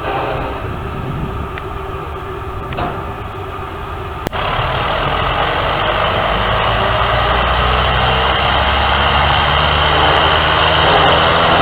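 A vehicle running with a steady low mechanical rumble. It jumps louder after a sudden click about four seconds in, then slowly keeps building.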